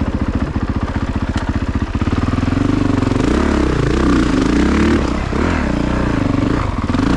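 2022 Honda CRF450RX dirt bike's single-cylinder four-stroke engine running steadily at low revs, then revving up and down repeatedly from about two seconds in as the throttle is worked.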